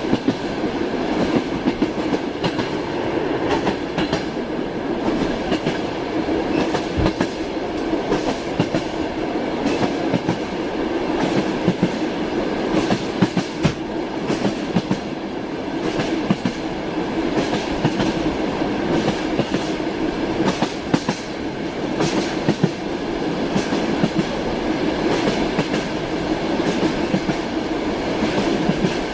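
Train wheels clacking over the rail joints, heard from aboard a moving train, with a steady rumble and many sharp clicks throughout.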